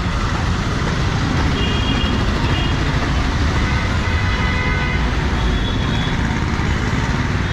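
Steady city street traffic noise on a rainy road, with several short, high-pitched vehicle horn toots sounding a few times through the middle.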